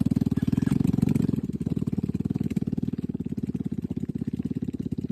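Motorcycle engine running at low revs with a fast, even pulsing beat, easing slightly after about a second and a half and then holding steady.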